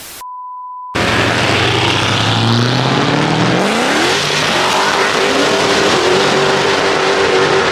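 A short censor bleep, then a car engine revs up over a couple of seconds and holds at high revs over a loud steady rush of noise.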